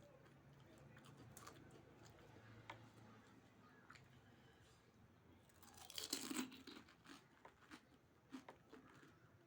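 Quiet crunching and chewing of pani puri, the crisp puri shells cracking between the teeth, with one louder crunch about six seconds in.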